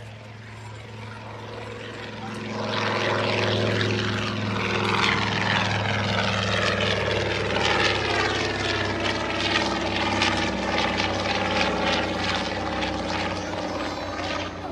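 Mitsubishi A6M Zero fighter's radial engine and propeller in flight, growing suddenly louder about two and a half seconds in as it comes close. It stays loud, its pitch sliding down as it passes.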